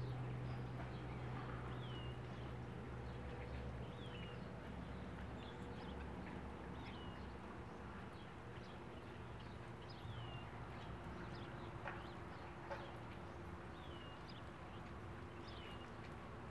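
A bird repeats a short, high, down-slurred chirp every one to three seconds, over a low steady hum that fades after the first few seconds.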